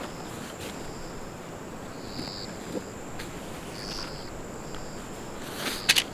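Insects calling steadily: a continuous high-pitched buzz, with short higher chirping bursts every second or two. Two sharp clicks about six seconds in.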